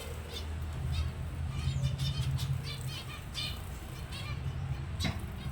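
Small cage finches chirping in short, repeated high calls while fluttering their wings as they bathe. A low steady hum runs underneath, and a sharp click comes about five seconds in.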